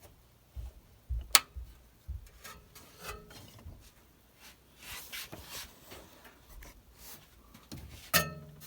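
Hands handling the 3D printer: a sharp click about a second in, a few low thumps, then rubbing and scraping, with a second sharp click near the end. No fan or motor starts, as the printer, set for 220 volts, does not power up.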